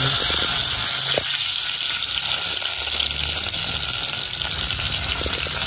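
Scorpions frying in hot oil in a pot: a steady sizzle with fine crackling.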